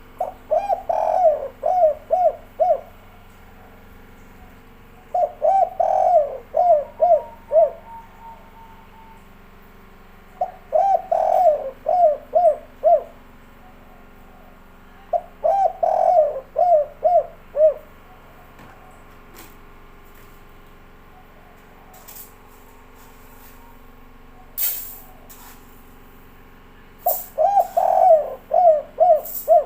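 Spotted dove (tekukur) singing its 'kuk 3' coo song. Five phrases of about six coos each, every phrase opening with a stronger note and ending in quicker, shorter coos, about five seconds apart. A longer pause after the fourth phrase is broken by a few sharp clicks and a knock before the song resumes near the end.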